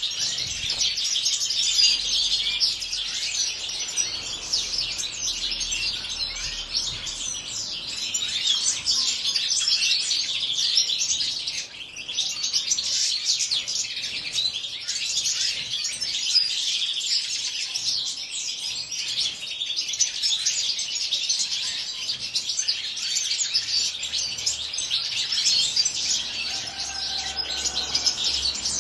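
European goldfinches in an aviary twittering and singing continuously, a dense stream of quick high chirps and trills.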